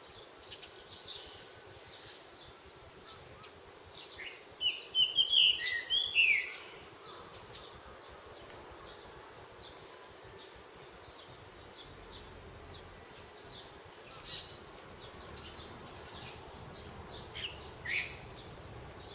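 Wild birds calling and singing: scattered short, high chirps throughout, a louder run of quick song notes about four to six seconds in, and a single louder call near the end.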